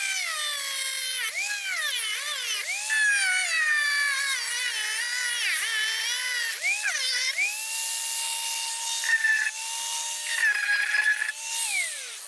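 Angle grinder fitted with a grinding disc rather than a cut-off wheel, grinding through a metal mounting flange. The motor's whine repeatedly dips in pitch as the disc bites and recovers as it eases off, then runs steadier before winding down near the end.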